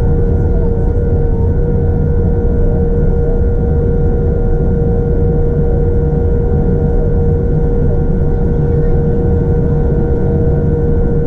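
Boeing 787-9 in motion, heard from the passenger cabin: a steady low roar of the engines and airflow with a constant whine over it.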